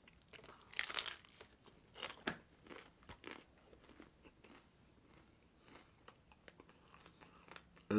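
Crunchy biting and chewing of a deep-fried fast-food taco shell, heard close up: loud crunches about one and two seconds in, then smaller crunching clicks that thin out as the chewing goes on.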